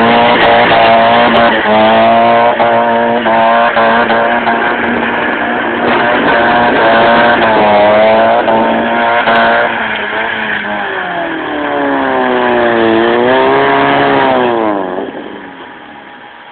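1992 Mazda Miata's 1.6-litre four-cylinder engine, through a wide-open exhaust, being driven hard: its pitch climbs and drops in short repeated sweeps, then dips and climbs again more slowly before falling away sharply near the end.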